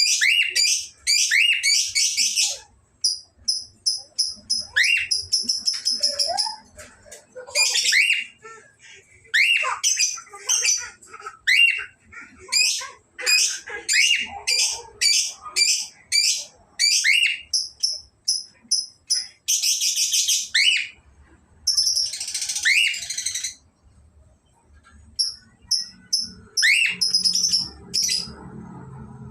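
A male and female cockatiel calling: many short, sharp, rising chirps in quick runs, with short bursts of rapid, high, whistled notes repeated evenly, and a few brief pauses.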